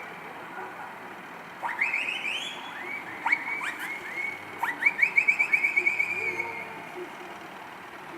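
A string of high-pitched horn toots over a faint low vehicle hum. Each toot rises into a steady tone. There are several longer toots, then a quick run of about six short toots a second, and they stop about a second before the end.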